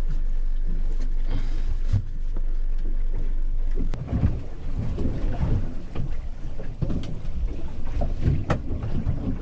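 Small boat in choppy sea: a low rumble of wind and water on the hull, then irregular low thumps and knocks of waves hitting the hull, which come thicker from about four seconds in.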